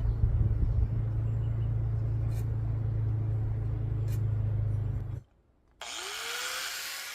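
A power tool cutting a length of steel angle iron runs steadily with a low hum, then stops abruptly. After a short gap a motor spins up with a rising whine over a hiss.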